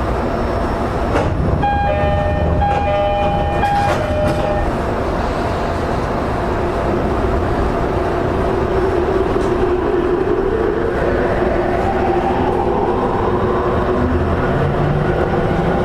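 E231 series EMU heard from inside a motor car: steady running noise with the VVVF inverter and traction motor whine rising in pitch as the train gathers speed. Early on there is a brief chime of two alternating notes.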